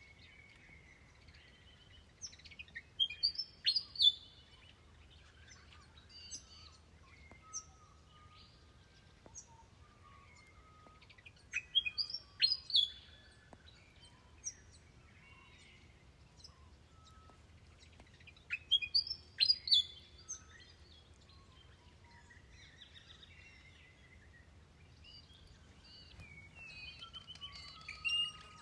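Wild birds singing. One bird repeats a loud, clear song phrase three times, roughly every eight seconds, while other birds call and chatter more quietly between.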